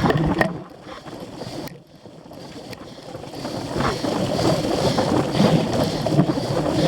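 Wind rushing over the microphone and a cyclocross bike rattling over rough ground, dipping about two seconds in and then growing louder through the second half as speed picks up.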